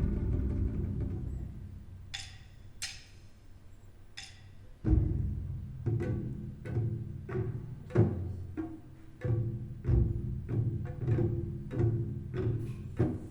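Recorded music played through Marten hi-fi loudspeakers: a low sustained chord fades out, a few high struck notes follow, then from about five seconds in a steady run of deep plucked bass notes with full low end.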